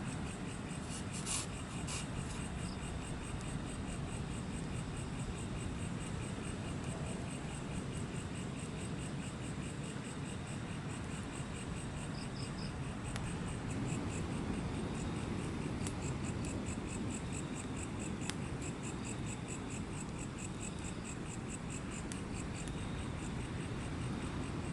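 Night insects, crickets by their sound, chirping in a rapid pulsing rhythm over a steady low rumble, with a few sharp clicks near the start.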